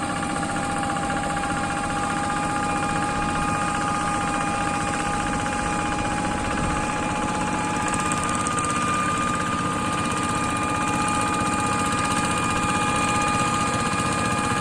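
Kubota tractor engine running steadily under load, with a steady mechanical whine over the engine note that shifts to a higher pitch partway through.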